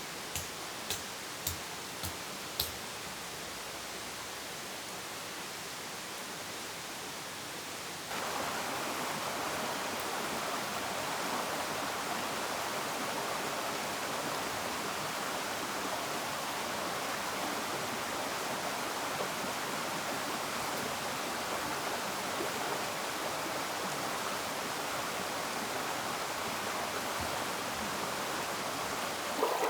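Steady rushing of running water, with a few light clicks in the first seconds; about eight seconds in the rush steps up, louder and fuller.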